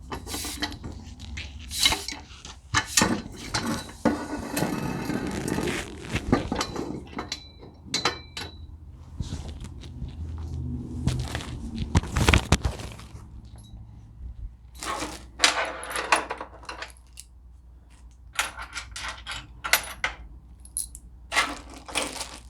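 Loose metal hardware such as bolts, nuts and washers clinking and knocking as saw-stand parts are handled and set down, with a longer scraping rattle about four to six seconds in.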